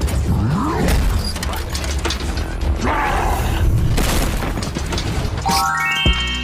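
Background music with a steady bass, over repeated clicks and rattles of hard plastic toy parts being handled. A run of short stepped electronic tones sounds near the end.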